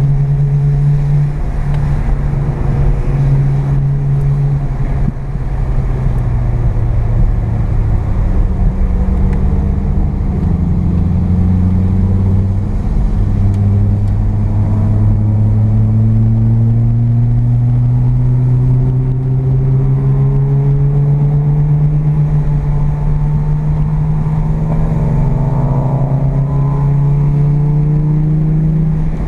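Mazda RX-7's carbureted 12A rotary engine heard from inside the cabin, pulling at moderate revs. Its pitch climbs slowly and drops sharply about 13 seconds in, as at a gear change, then climbs again.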